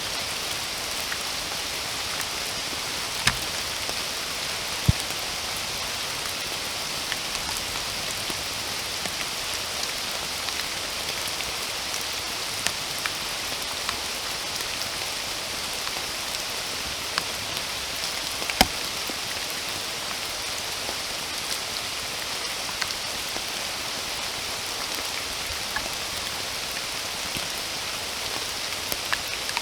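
Steady rain falling in a forest, an even hiss with scattered close raindrops landing as sharp taps, a few louder ones about five seconds in and near the middle.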